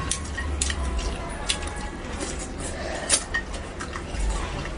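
Someone eating spicy braised fish: irregular sharp clicks of utensils against a dish, with eating sounds in between.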